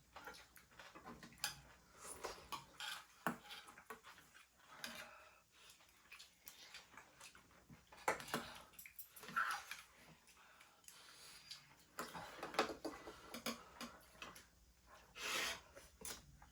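Utensils clinking against dishes while eating, with scattered small clicks and brief rustling.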